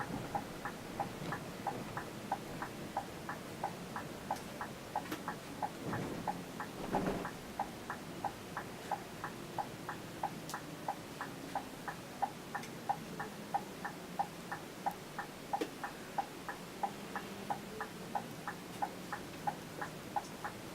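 Turn-signal indicator ticking steadily inside a coach bus, about two to three ticks a second, over the low hum of the bus in motion.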